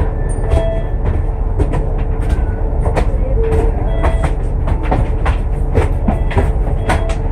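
Alexander Dennis Enviro500 MMC double-decker bus under way, heard from inside: a steady low rumble from its Cummins ISL8.9 diesel and running gear, with frequent sharp rattles and knocks from the body.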